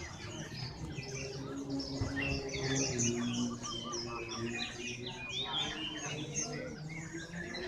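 Many caged songbirds chirping and whistling at once, a dense chorus of overlapping short calls.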